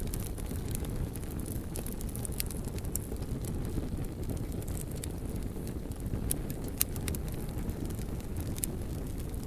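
Wood fire burning: a steady low rumble of flames with scattered sharp crackles and pops, one louder pop about seven seconds in.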